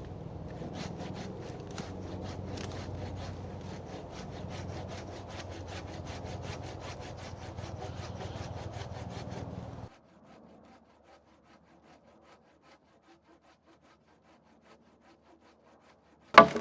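A saw cutting through a wooden branch in a steady run of quick strokes, which stops about ten seconds in. After near silence, loud sawing starts again just before the end.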